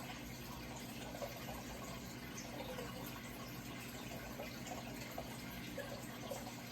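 Steady running water trickling and gurgling, over a low steady hum.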